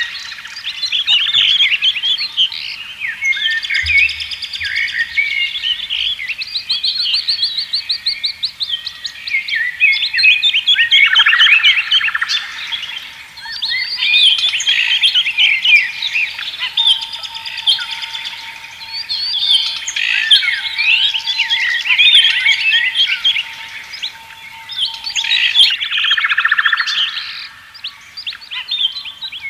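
Many songbirds singing and chirping together in a continuous, overlapping chorus of quick trills and whistles, with one fast buzzy trill a few seconds in.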